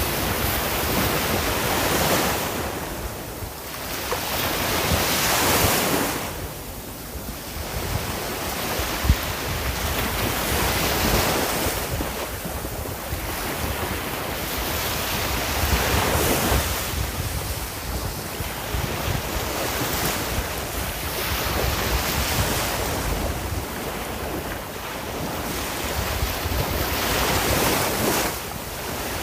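Ocean waves breaking and washing on a shore, the surf swelling and easing every few seconds, with wind noise on the microphone.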